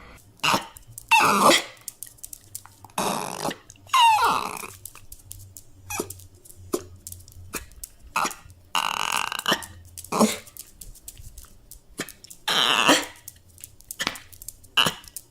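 A dog whining and grunting in short, irregular bursts, some sliding down in pitch.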